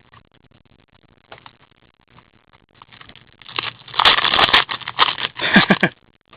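A hockey card pack's wrapper crinkling and tearing open: faint scattered crackles at first, then a loud stretch of crinkling from about halfway through that stops just before the end.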